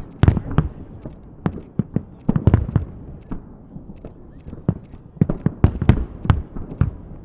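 Fireworks salute shells bursting as a string of sharp bangs at irregular intervals, coming in clusters of several a second.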